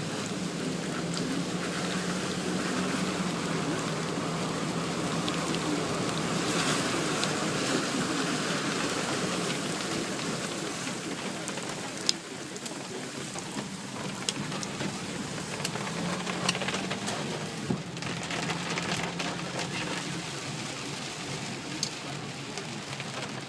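Rain falling on a car's roof and windshield, heard from inside the car as it drives, with scattered sharp drop ticks over a steady low hum of the engine and road.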